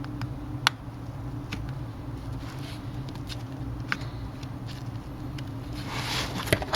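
Sharp plastic clicks, a few single snaps a second or so apart, as the clipped-on plastic frame of a Kindle Fire HDX tablet is pried open with a plastic pry tool, followed by brief scraping near the end. A steady low hum runs underneath.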